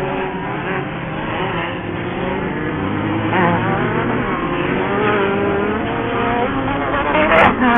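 Off-road Pro Buggy race engines running at speed, several at once, their pitch rising and falling as they rev and shift. A sharp loud bang near the end.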